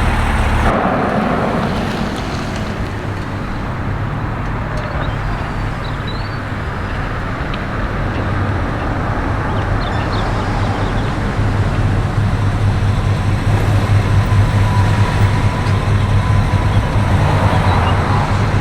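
Car engine running close by over general traffic noise, a low rumble that grows louder over the last several seconds.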